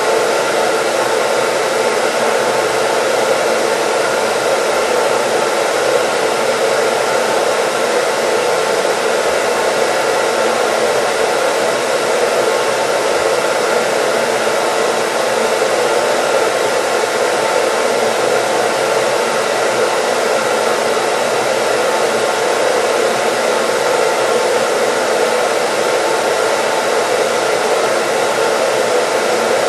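Hair dryer running continuously: a steady, even rush of air with a faint hum through it, never changing.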